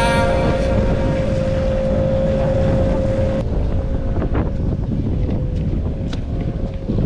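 Strong wind buffeting the microphone over the noise of a small boat at sea. A steady held tone stops abruptly about three and a half seconds in.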